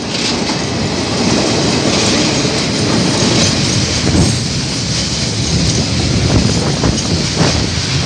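Diesel locomotives of a KiwiRail coal train running past close by, followed by loaded container wagons rolling over the track. It is a loud, steady rumble, with wheels clacking over the rail joints near the end.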